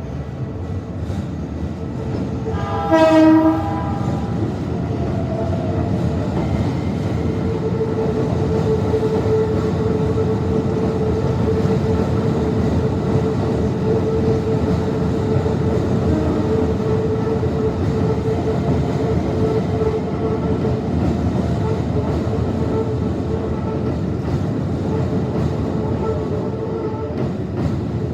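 A train horn gives one short blast about three seconds in, then a train runs past slowly through a sharp curve. Its steady rumble grows louder and holds, with a steady high tone underneath.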